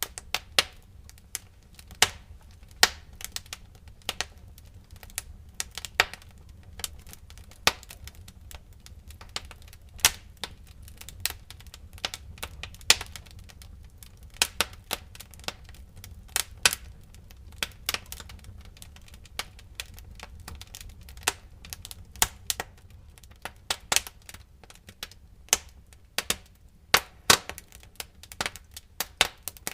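Wood fire crackling: irregular sharp pops and snaps of burning firewood, some much louder than others, over a low steady rumble of the flames.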